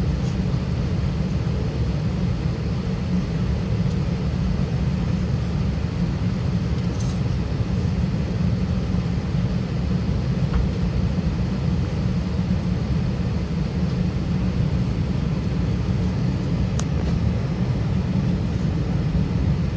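Steady low rumble of an Airbus A320's cabin, heard from a window seat, with a couple of faint ticks.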